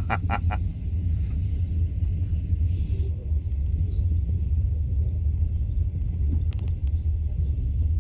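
Steady low rumble of a sleeper train running, with a few quick clicks at the start.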